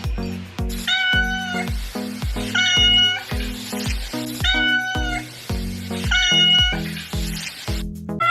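A cat meowing four times, in evenly spaced, nearly identical calls, over background music with a steady beat.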